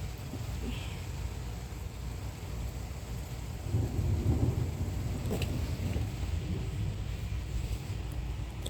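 Thunder rumbling during a severe thunderstorm, with rain falling; the rumble swells louder about four seconds in.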